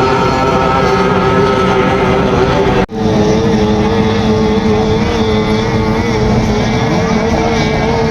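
Racing powerboat engine running loud and steady during a pre-race warm-up. The sound breaks off abruptly about three seconds in and picks up at once with a steady engine note of a slightly different pitch.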